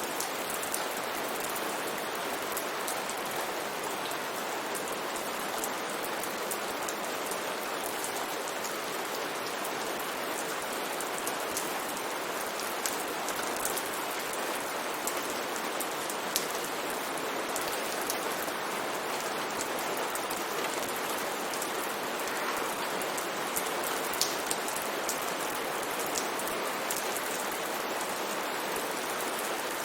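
A gentle rain shower falling steadily: an even hiss with many small, sharp drop ticks scattered through it.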